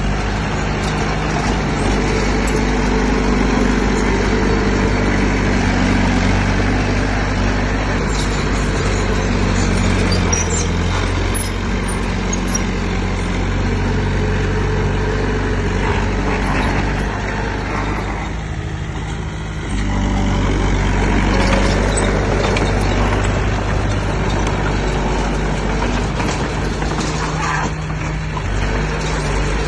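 Heavy diesel engine of earthmoving equipment running steadily with a deep hum. It eases off briefly about two-thirds of the way through, then picks up again.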